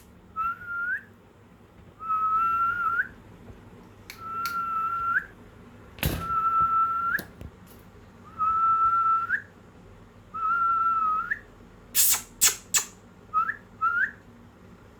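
Parrot whistling: a long note held on one pitch that flicks upward at the end, repeated six times about two seconds apart, then two short rising chirps. A few sharp clicks come in between the notes near the end.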